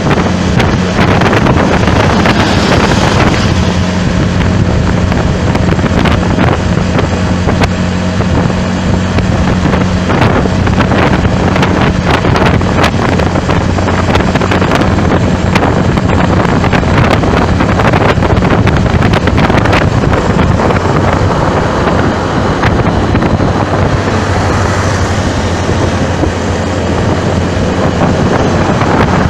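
Heavy wind buffeting and crackling on the microphone over the steady low hum of a moving vehicle in traffic.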